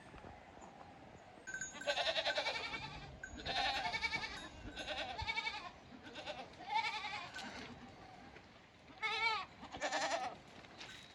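Goats bleating, about six quavering calls one after another, some higher-pitched than others.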